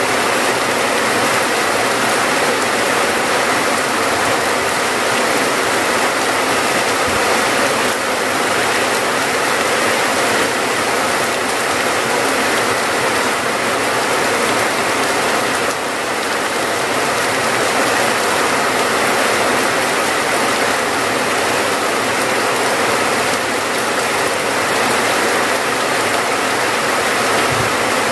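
Rain falling steadily, a dense, even hiss of many drops with no break.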